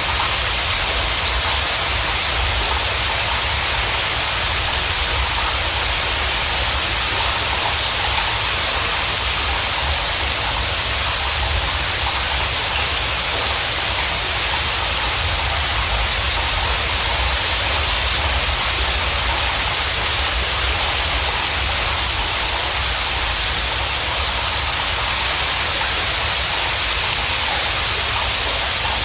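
Steady, even rain falling, with a faint patter of drops over a low rumble.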